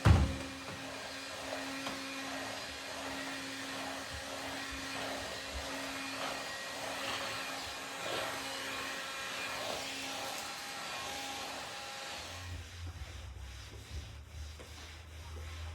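A vacuum cleaner running with a steady whine, its noise swelling about once a second as it is pushed back and forth. It is switched off about twelve seconds in, leaving a low hum. A thump sounds right at the start.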